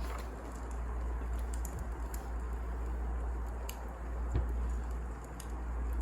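Wood fire burning in a fireplace: a steady low rumble with scattered sharp crackles and pops, one louder pop about four seconds in.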